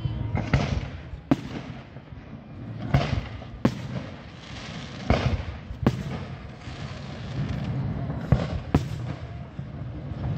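Aerial firework shells bursting: about eight sharp bangs, coming in pairs less than a second apart, each trailed by a rumbling echo.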